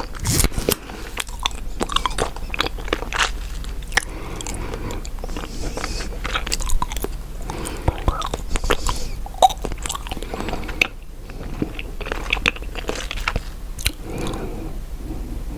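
Chewing gum close to the microphone: many irregular wet smacks and sharp clicks.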